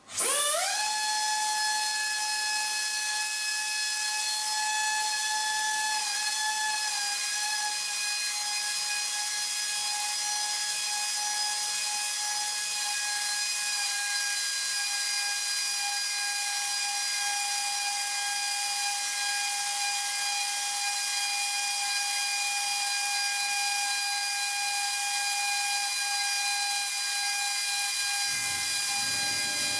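Air motor of a FlangeMill H pneumatic portable flange facing machine starting up. It spins up within half a second to a steady high whine and keeps running at a constant speed. Near the end a lower, rougher sound joins it.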